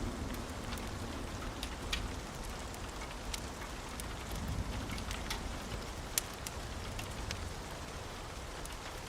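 Steady rain falling on a roof, with scattered sharp ticks and a low rumble underneath.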